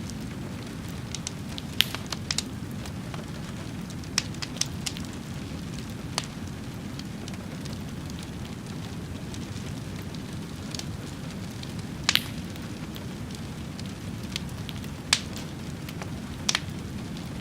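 Wood fire burning with a steady low rumble and scattered sharp crackles and pops, a few louder pops standing out.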